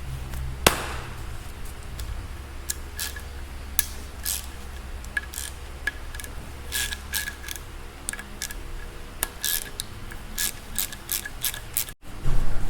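Hand tools and metal engine parts being handled during the dismantling of a BMW S1000RR engine: irregular small metallic clicks and light rubbing over a steady low hum, with one sharper click just under a second in.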